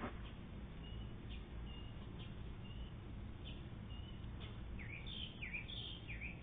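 Faint bird chirps, short high notes repeating about once a second, with a quicker run of swooping chirps near the end, over a low steady background hum.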